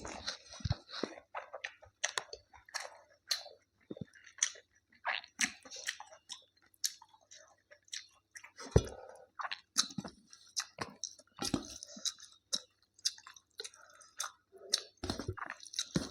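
Close-up chewing of food: a run of irregular, wet mouth clicks and smacks, with a few louder bites about 9 seconds in and again near the end.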